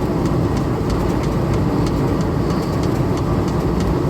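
Gas-engine-driven line shaft running steadily, with a fast, even clicking over its steady noise.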